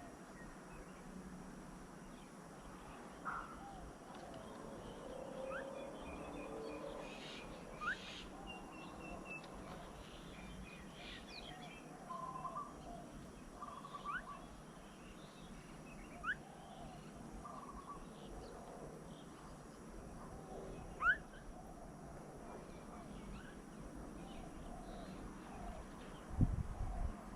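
Several wild birds calling at a garden bird table: scattered chirps and short notes that slide quickly upward, heard every few seconds. A few low thuds come near the end.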